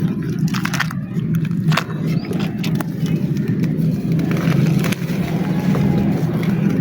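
Dry black clay crumbling and crunching, with scattered sharp crackles that are thickest in the first few seconds, over a steady low hum.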